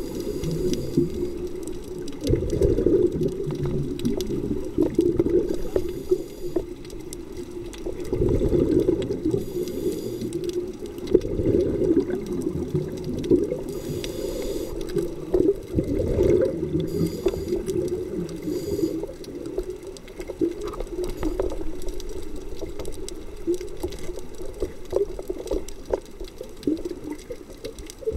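Scuba diver breathing underwater, heard through the camera housing: regulator hisses on each inhale, then exhaled bubbles rumble and gurgle in surges every few seconds.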